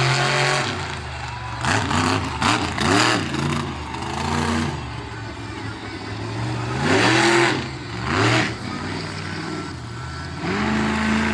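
Monster truck engine revving hard in repeated bursts, its pitch sweeping up and down, with the loudest surges about two to three seconds in, again around seven to eight seconds in, and near the end.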